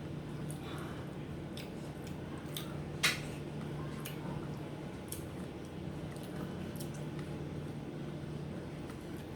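Eating at a plate of rice and curry: small wet squishing and light clicks of food and fingers against a plate, with one sharper click about three seconds in, over a steady low hum.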